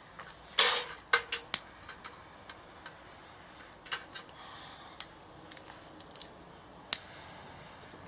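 A few sharp, separate clicks and snaps, the loudest a little after half a second in, with more at irregular gaps over a low steady background.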